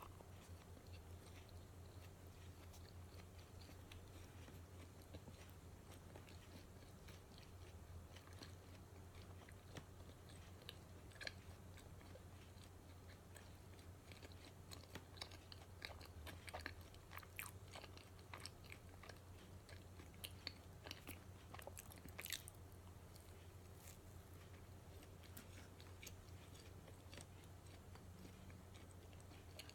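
A person chewing and biting into donuts, faint, over a steady low hum. Small wet mouth clicks come thickest in the middle of the stretch, then it goes quiet again.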